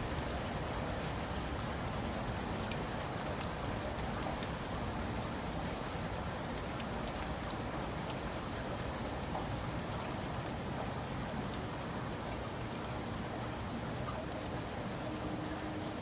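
Steady rain with many individual raindrops pattering on a surface, an even hiss with scattered small drop ticks throughout.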